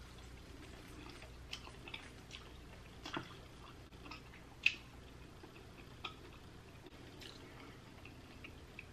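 Eating sounds from sauce-coated king crab meat: faint chewing with scattered short wet clicks and smacks about once a second, the loudest a little past halfway through.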